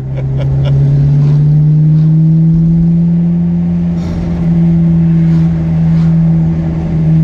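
Ferrari F430's V8 engine heard from inside the cabin, getting louder as the car pulls away and its note rising over the first couple of seconds, then holding a steady pitch with brief small dips about four and six seconds in.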